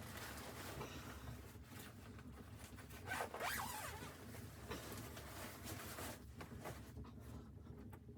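A zipper being pulled in several rasping strokes, loudest about three seconds in.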